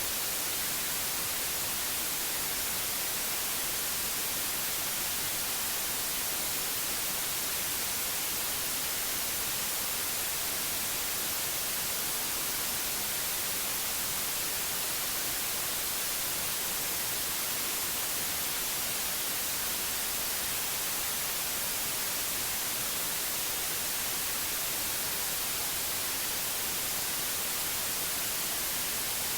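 Steady white noise: an even, unbroken hiss, strongest in the high frequencies, with no change or interruption.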